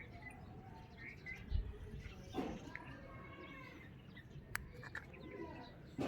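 Birds chirping and calling in short, repeated notes, with a low thud about a second and a half in and a sharp click just after the middle.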